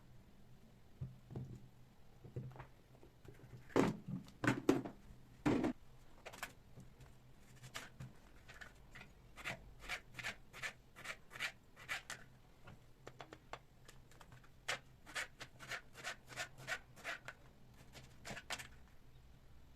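Household handling sounds: a few knocks of things being set down, then a long run of short scraping or tapping strokes, about two a second.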